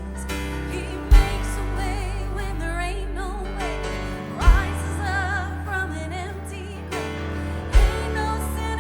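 Live worship band playing with sung vocals: sustained bass and keyboard chords under wavering voices, with three heavy low drum hits about a second, four and a half seconds and nearly eight seconds in.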